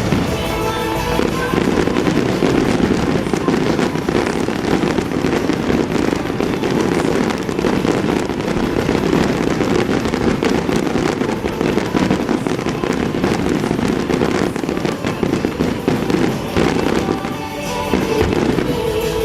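Aerial fireworks firing in a dense, continuous barrage of bangs and crackling, over the show's music, which comes through again as the barrage thins near the end.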